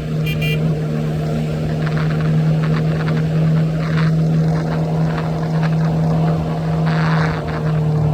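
Triumph Scrambler 400X's single-cylinder engine running at a steady cruising speed on the highway, its pitch holding level throughout.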